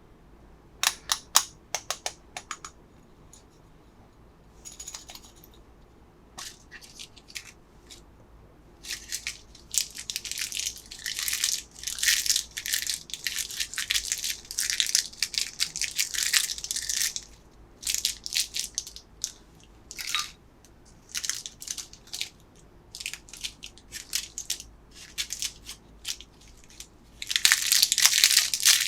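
Plastic candy wrappers being handled and opened: a few sharp clicks about a second in, then repeated bursts of crinkling and rustling plastic, busiest in the middle and again near the end.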